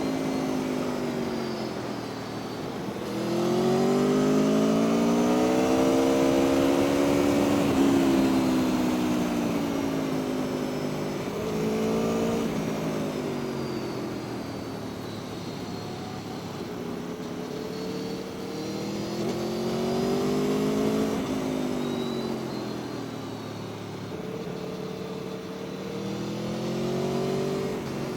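Aprilia Tuono V4 1100 RR's V4 engine accelerating hard and easing off over and over, its pitch climbing and dropping about four times, over steady wind rush.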